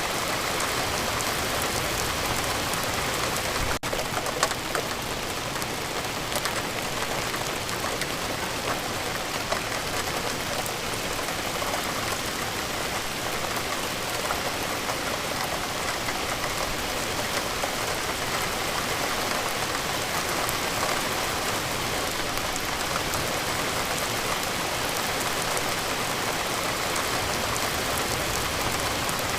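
Steady rain falling, an even hiss flecked with the ticks of individual drops. It drops out for a split second about four seconds in.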